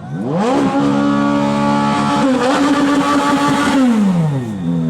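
A Ferrari supercar engine revved hard from idle. It climbs fast, holds steady at high revs for about three seconds with one brief dip, then falls back toward idle near the end.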